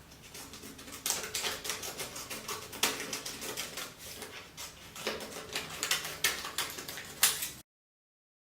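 Paper being handled and folded: a run of crisp crinkling and clicking taps, irregular and close together, which cuts off abruptly to silence near the end.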